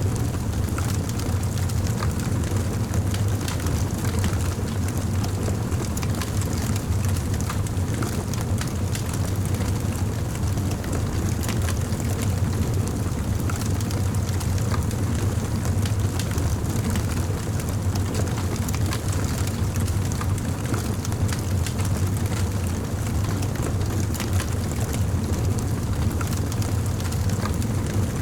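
Campfire burning: a steady low roar of the flames with frequent small crackles and pops from the burning wood.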